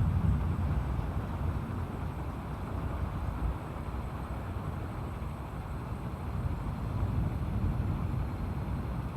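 Tropical storm wind, a low rumble that swells and eases in gusts, louder near the start and again about seven seconds in.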